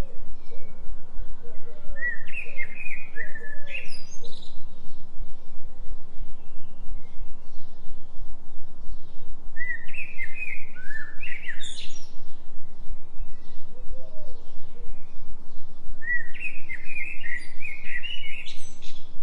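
A songbird singing three phrases, each a quick run of notes climbing higher, spaced several seconds apart. Under it runs a steady low drone pulsing about three times a second: a 3 Hz delta binaural beat tone.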